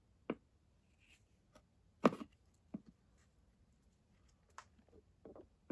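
A few separate clicks and knocks of hand tools and small parts being handled while working on a small motorcycle carburettor, the loudest about two seconds in.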